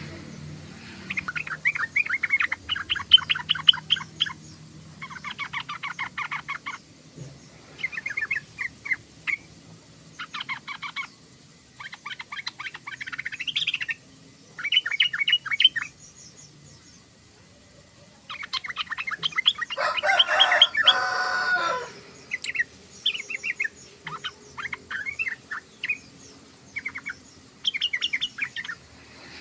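Yellow-vented bulbul chattering in repeated bursts of rapid notes, each a second or two long. A louder, denser burst comes about two-thirds of the way through.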